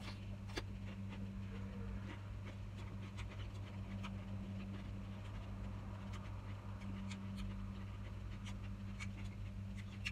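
Close-up eating sounds: chewing of raw cucumber and salad, with scattered small clicks of a metal spoon against a bowl. A steady low hum runs underneath.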